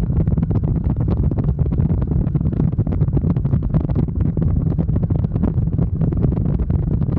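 Wind buffeting the microphone on a moving motorcycle: a loud, steady low rumble.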